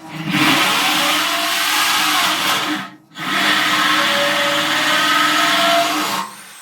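Electric drill with a hole saw running against sheet steel in two long bursts, with a brief stop about three seconds in, then a falling whine as it spins down near the end. The worn hole saw is not cutting through the steel.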